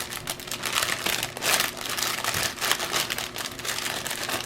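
Plastic packaging crinkling as it is handled, with irregular rustles and crackles throughout.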